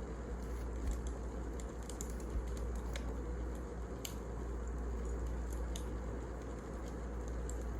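Wood fire burning in a fireplace: sparse, irregular crackles and pops over a steady low background noise.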